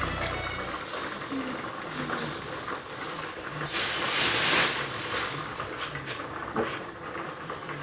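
Hissing of cooking on a stovetop, with a louder burst of hiss lasting about a second near the middle and a few light knocks.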